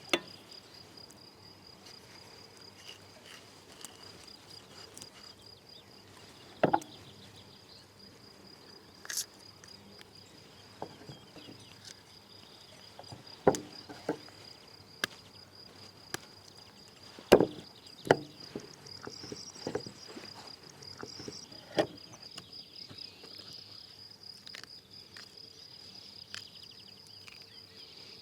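Insects chirring in a steady high, finely pulsing drone, with scattered sharp knocks and clicks every few seconds.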